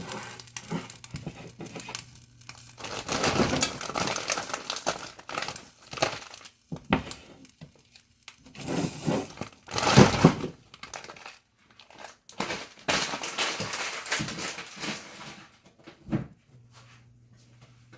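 Crinkling and rustling, as of something being handled or torn open, in irregular bursts with short pauses; the loudest burst comes about ten seconds in, and it dies down near the end.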